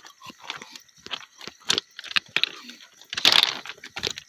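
Footsteps crunching on railway track ballast gravel, irregular short crunches, with a louder rustling scrape about three seconds in.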